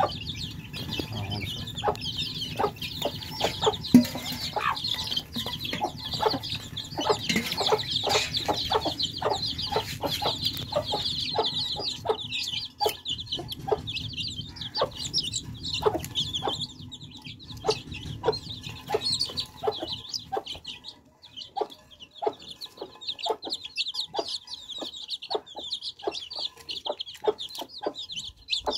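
A brood of baby chicks peeping continuously in high chirps, mixed with many quick sharp taps. A low background hum stops about two-thirds of the way through.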